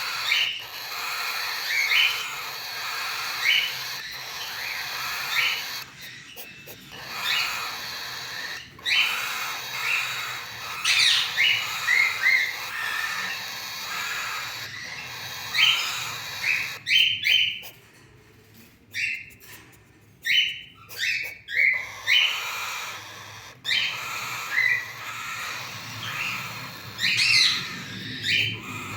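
Cockatiel chicks calling: a steady raspy chatter with many short repeated chirps and rising calls, thinning out briefly a little past the middle.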